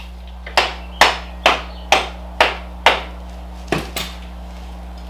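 Hammer blows during motorcycle rear-suspension work: six sharp, evenly spaced strikes about two a second, then two lighter taps.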